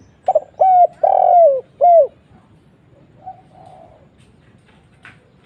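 Spotted dove cooing: a phrase of four loud coos, the third the longest and the last ones sliding down in pitch at the end. A fainter coo follows a little over a second later.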